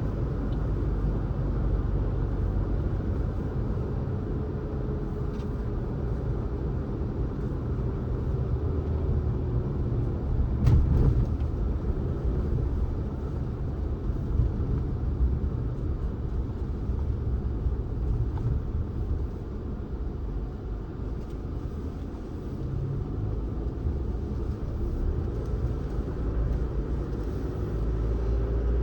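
Car on the road: a steady low rumble of engine and tyres, with a faint engine note that rises and falls, and a single short knock about eleven seconds in.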